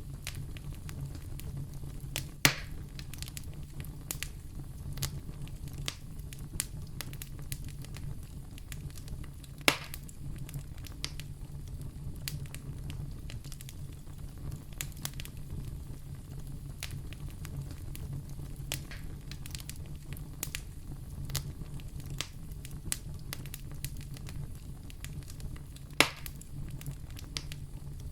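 Fire burning in a fireplace, crackling with many small sharp clicks over a steady low hum. Three louder pops stand out: one about two seconds in, one about ten seconds in, and one near the end.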